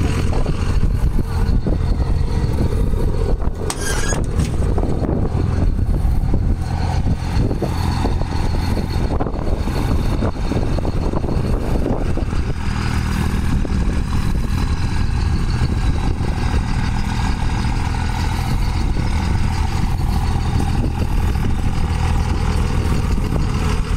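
Truck engine running at low speed while the truck reverses into position, a steady low hum that settles into an even idle about halfway through.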